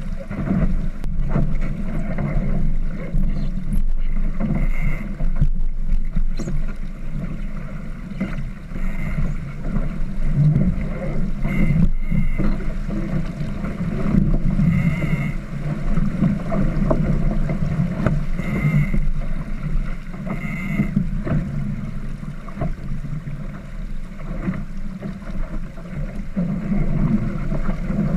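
Wind buffeting the microphone and water rushing along the hull of a small sailboat under way, with a low, surging rumble and a few brief higher sounds now and then.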